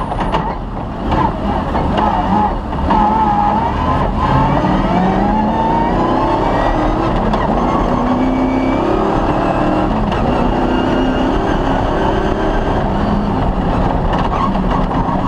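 Cross-country rally car engine pulling hard, its pitch climbing as it accelerates and then holding high revs. Short knocks and rattles come in the first few seconds.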